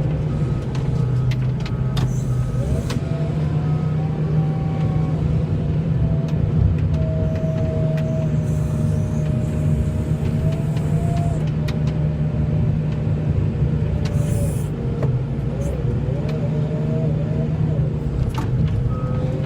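Vehicle engine running steadily with a low hum, and a fainter whine that drifts slowly up and down in pitch.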